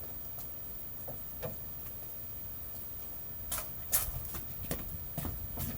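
Handling noise: a few faint clicks, then a quick run of sharp clicks and knocks in the second half.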